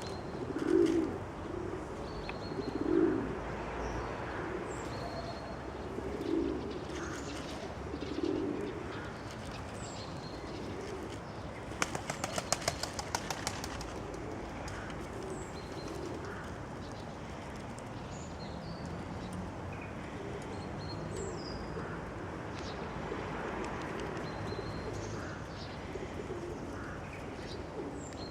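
Feral pigeons cooing in low repeated calls several times in the first nine seconds, then a quick run of wing claps and flapping about twelve seconds in. Faint high chirps of small birds come and go throughout.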